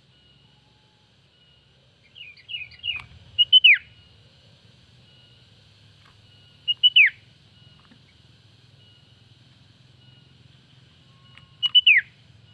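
Female sooty-headed bulbul (kutilang) calling, a call used to lure rival birds. A quick run of short chirps about two seconds in is followed by a call of two sharp high notes and a falling whistle, given three times about four seconds apart.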